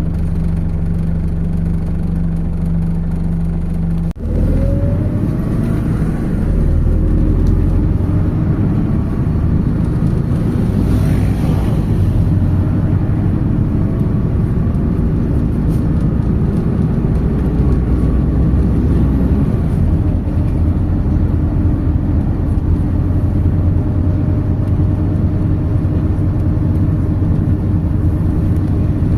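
MAZ 206 city bus's diesel engine and drivetrain, heard from inside the passenger cabin. It runs steadily at a low pitch at first, then about four seconds in the sound drops out for a moment. After that it runs louder, with rising whines as the bus gathers speed.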